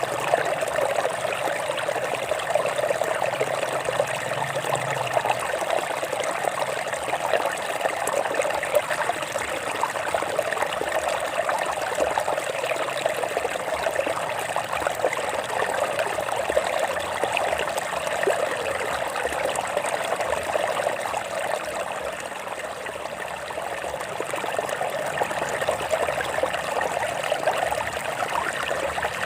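A shallow stream trickling and babbling over rocks, an even, unbroken flow.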